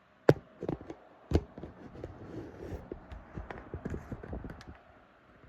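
A run of knocks and clicks. The two loudest come a third of a second in and just over a second in, followed by a quicker patter of lighter taps that dies away near the end.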